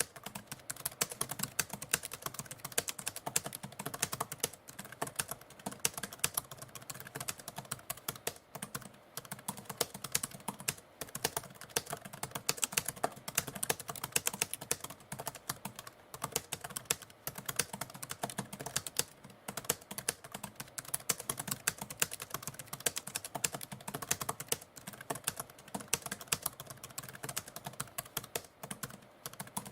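Typewriter being typed on steadily, a dense run of key clacks with brief pauses between bursts.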